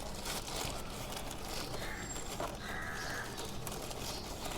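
Quiet outdoor background with a faint, short bird call about two and a half seconds in.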